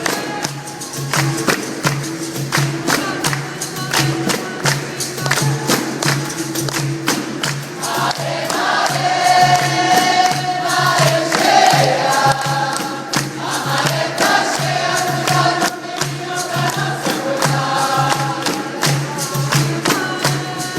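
Live capoeira music: percussion keeps a steady, even beat with sharp strikes and tambourine-like jingles, and a group sings a chorus, strongest in the middle of the stretch.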